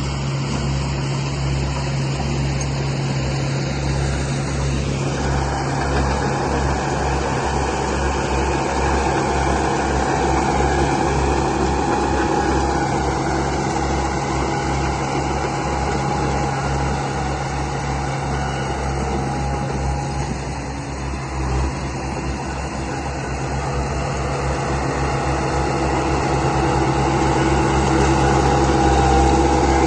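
Motors and gearing of a remote-control construction model running steadily, a low hum under a whine that rises in pitch about five seconds in and shifts again later.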